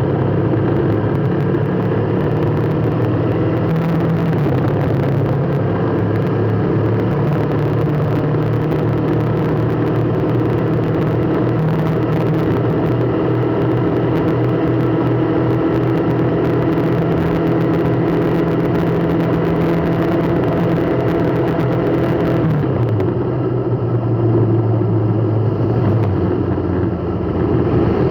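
Car engine running steadily at low speed, its hum shifting in pitch a few times, with a change in the sound about three-quarters of the way through.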